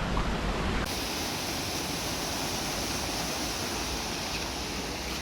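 Steady rushing roar of a waterfall. About a second in the sound changes abruptly from a deeper rumble to a brighter hiss.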